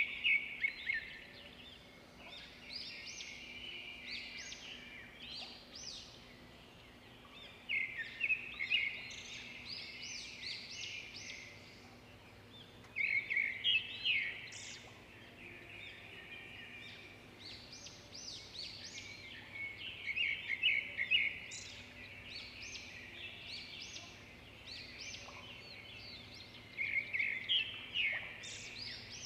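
A songbird singing in short bouts of quick chirps, one about every six to seven seconds, over a faint steady low hum.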